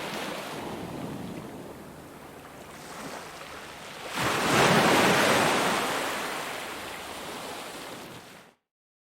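Ocean surf: a wave breaks about four seconds in and washes out, fading over several seconds. Near the end the sound cuts off abruptly to dead silence.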